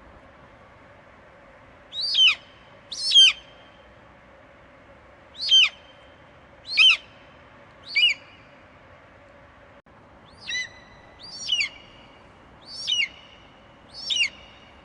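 Eagle screeching: a run of nine short, high-pitched calls, each sliding steeply down in pitch, coming at uneven intervals of about one to two seconds over a faint steady background hiss.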